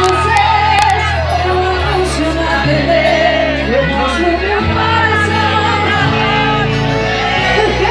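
Live band music with a singer, loud and amplified, over a steady bass line that changes note every second or so, with voices in the audience shouting.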